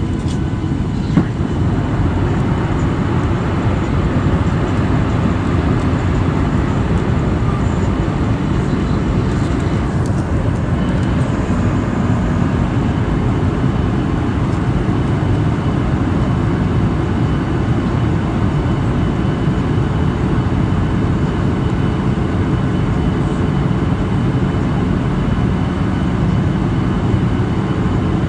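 Cabin noise of a Boeing 737-800 as its CFM56-7B jet engines run at high thrust: a loud, steady low rumble with faint steady whining tones, most likely during the takeoff run and initial climb. There is a single click about a second in.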